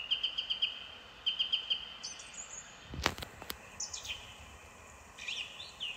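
Small birds calling: two quick series of short, evenly repeated chirps in the first two seconds, then scattered higher whistled notes. Two sharp clicks about three seconds in.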